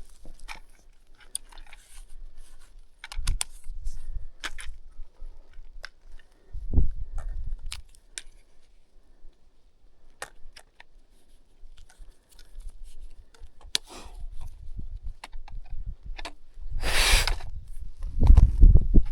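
Footsteps on loose scree, small stones clicking and crunching underfoot, with occasional low thumps. About two-thirds of the way through comes a second-long sliding rush, then heavier thumps near the end.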